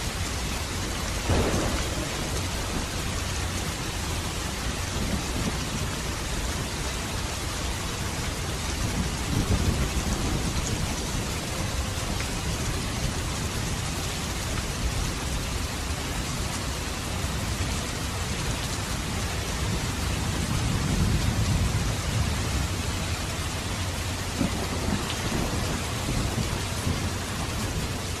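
Steady rain falling, with thunder: a sharp crack about a second in, then low rolling rumbles about a third of the way through and again past two-thirds.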